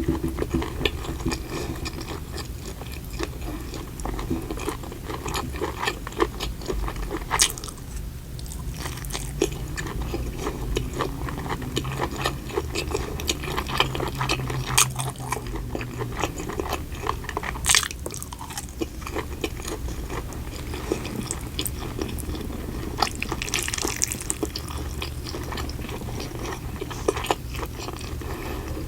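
Close-miked chewing and biting of food, with dense small wet mouth clicks and a few sharper crunches.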